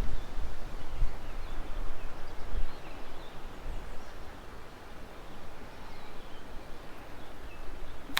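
Wind gusting on the microphone as a storm moves in, strongest in the first second or so, with faint bird chirps over it.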